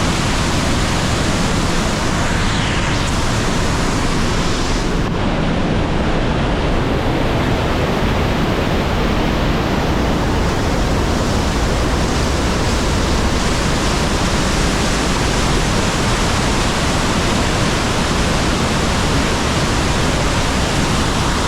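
The Rhine Falls roaring up close: a loud, steady rush of plunging water that does not let up.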